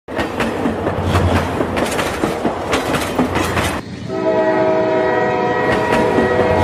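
Train sound effect: a train's wheels clattering over rail joints with repeated knocks, then a multi-tone train horn sounding steadily from about four seconds in.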